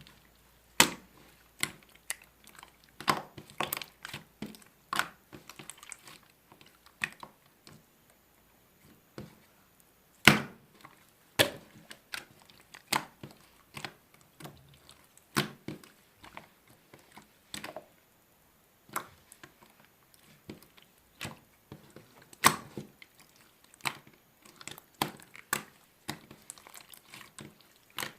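Slime being squeezed and stretched by hand: irregular sticky clicks and squishy pops, a few louder than the rest, with short pauses between.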